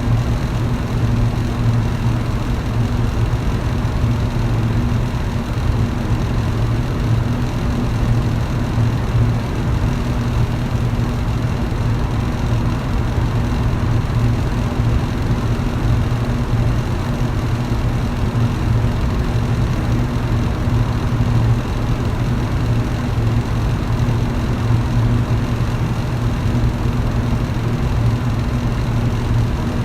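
Electric fan running steadily: a low, even motor hum over the constant whoosh of moving air.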